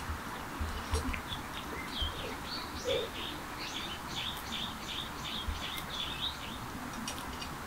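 Small birds chirping: a quick series of short, repeated chirps, about two or three a second, starting about a second and a half in and stopping shortly before the end, over a steady outdoor hiss.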